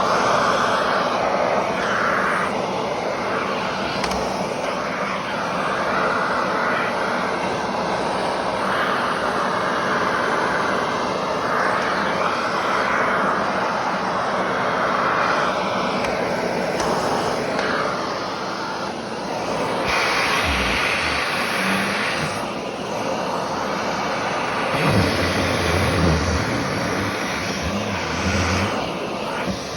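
Vacuum cleaner running steadily, its tone shifting as it is moved about, with a few low knocks in the latter part.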